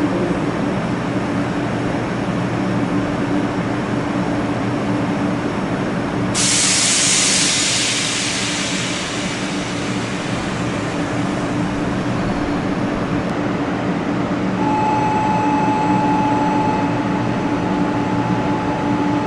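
Shinkansen train with a steady electrical hum. About six seconds in a loud hiss starts suddenly and fades over several seconds. A steady higher tone comes in later.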